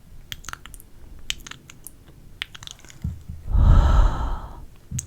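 Close-miked mouth sounds: scattered wet clicks and smacks, then, about three and a half seconds in, a loud breath pushed across the microphone lasting about a second.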